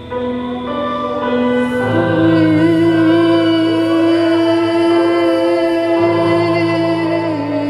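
Worship music: several voices singing long held notes over a sustained instrumental backing.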